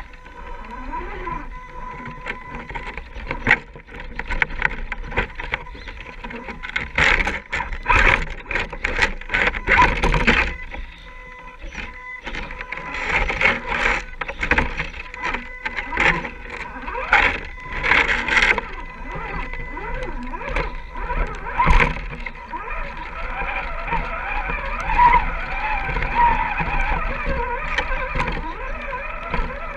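Electric motor of a 1/10-scale RC rock crawler whining, its pitch rising and falling toward the end, with many clicks and knocks from the truck working over rough ground.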